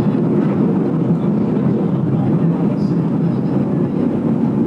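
Steady rumble of a train running along the track, heard from inside the passenger carriage, even and unbroken throughout.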